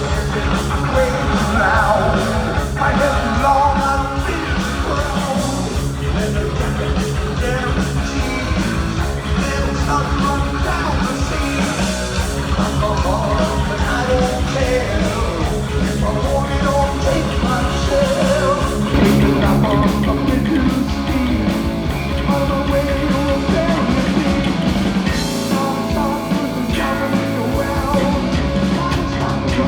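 Heavy metal band playing live: electric guitars and drum kit, with a singer.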